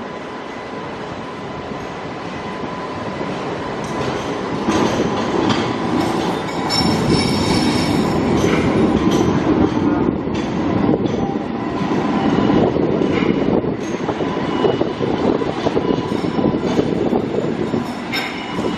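A rail vehicle running close by: wheels clattering with some high-pitched squeal. The noise builds a few seconds in, stays loud through the middle and eases near the end.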